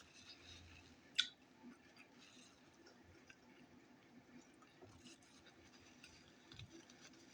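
Faint chewing of a taco close to the mic: quiet wet mouth clicks and smacks, with one sharper click about a second in.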